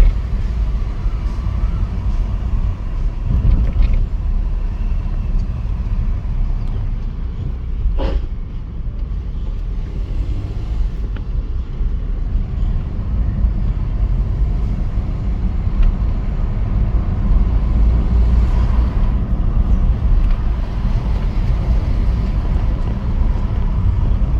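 2015 Ford Figo 1.5 diesel running while being driven: a steady low rumble, with one sharp short knock about eight seconds in.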